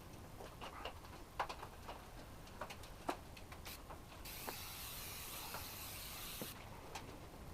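Faint, scattered clicks and scrapes of hand tools working old sealant out of a car's windshield channel. A steady hiss starts about four seconds in and lasts about two seconds.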